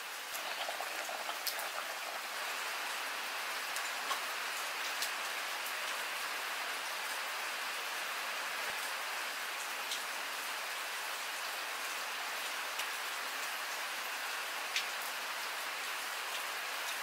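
Steady rain falling on the ground and roof, an even hiss with a few sharp ticks of drops scattered through it.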